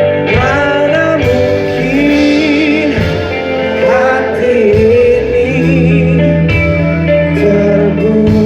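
Live band music: a singer's voice carries the melody over guitar accompaniment and sustained low notes.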